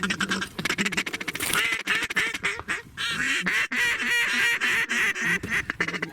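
Rapid duck quacking and chatter, many calls in quick succession, the sound of waterfowl calling over a decoy spread.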